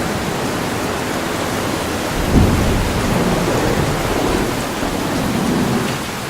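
Steady heavy rain with a low rumble of thunder swelling about two and a half seconds in.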